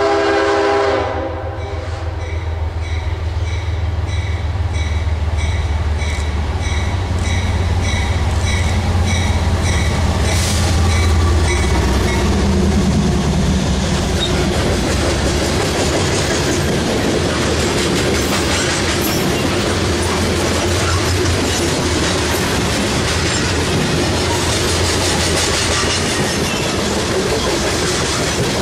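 Freight train led by a GE AC44 diesel locomotive: a horn blast of about a second and a half opens, then the locomotive's engine drone builds and passes about ten seconds in. Covered hopper cars follow, rolling by with steady wheel clatter over the rails.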